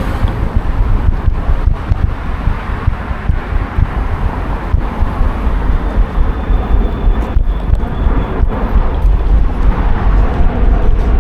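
Wind buffeting an action camera's microphone while cycling: a loud, steady rumble with ragged gusts.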